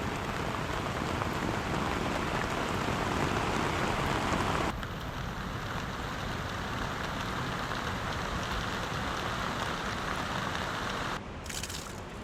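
Heavy storm rain, a dense steady hiss. It changes abruptly about five seconds in and drops in level near the end.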